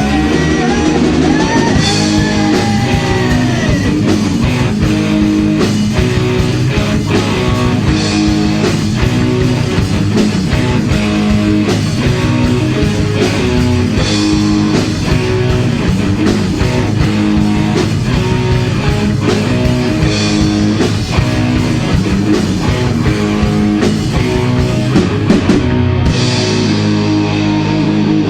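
Heavy metal band playing: electric guitars over bass and a steady drum kit.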